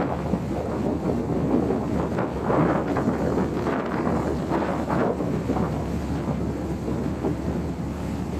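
Wind buffeting the microphone in uneven gusts, over the steady low drone of a large car ferry's engines as it leaves port.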